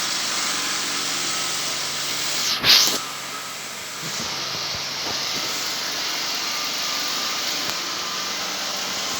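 Motorised sweeping machine running with a steady hissing whirr. About two and a half seconds in, a brief loud whoosh; the machine then runs slightly quieter until it picks up again about a second later.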